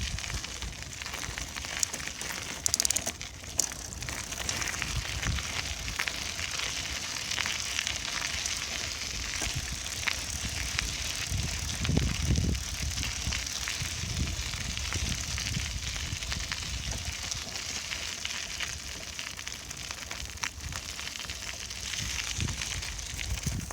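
Bicycle on the move: a steady hiss and crackle from the tyres rolling over the path, with many small scattered clicks and rattles, and a louder low rumble about twelve seconds in.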